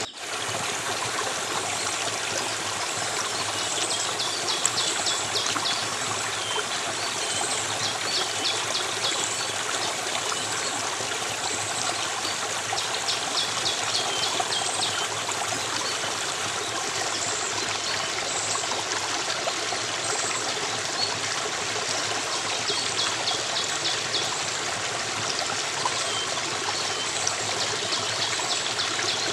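A flowing stream's steady rush of water. Over it come repeated bursts of fast, high trilling lasting a second or two each, and brief high chirps.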